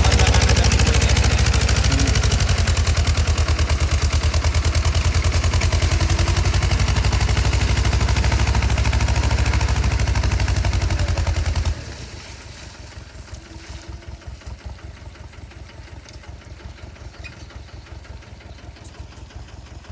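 Mahindra tractor's diesel engine running with a rapid, even knock. About twelve seconds in the sound drops suddenly to a much lower level and the engine keeps running.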